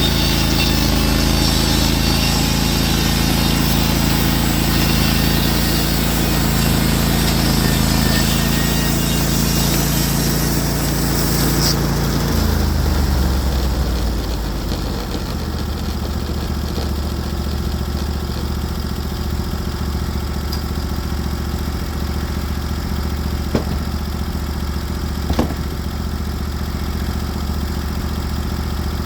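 Norwood HD36v2 portable bandsaw mill running at full throttle with its band blade cutting through a spruce log, a hiss riding over the engine. About twelve seconds in the cut ends and the engine drops to a lower idle, with two sharp clicks near the end.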